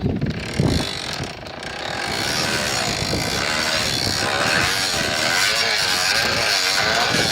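A bicycle's rear brake rubbing against the turning rear tire, making a steady motor-like buzz that wavers in pitch. It starts about two seconds in, after a few knocks, because the brake is stuck close to the tire.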